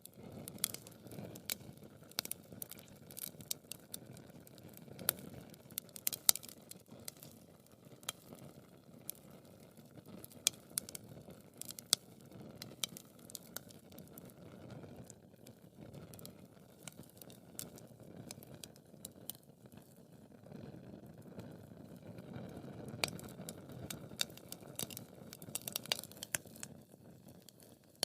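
Wood fire burning: irregular sharp crackles and pops over a low, soft rush of flames that swells and fades.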